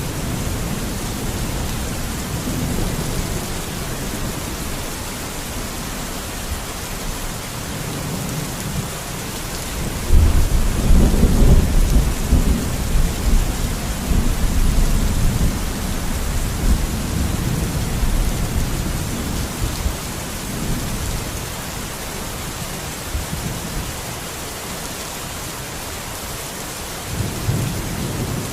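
Steady heavy rain with a deep roll of thunder that breaks in suddenly about ten seconds in and rumbles on, slowly fading, for several seconds; another rumble begins near the end.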